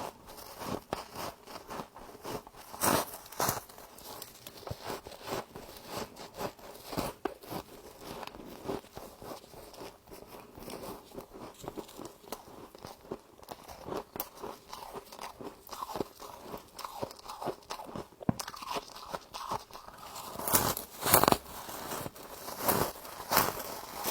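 A person biting into and chewing humidifier frost close to the microphone: continual crisp crunching, with louder bites about three seconds in and a cluster of them near the end.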